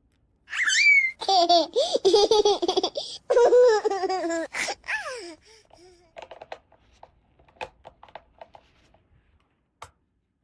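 High-pitched, childlike giggling and laughing for about five seconds, followed by a scatter of light clicks and taps of small plastic toy pieces being handled.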